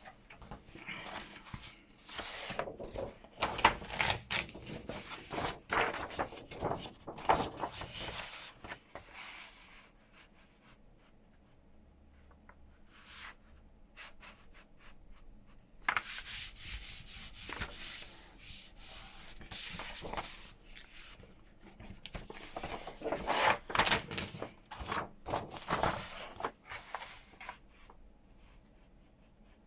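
Sheets of paper being folded and creased by hand, rubbing and rustling against each other in two spells with a pause of a few seconds between.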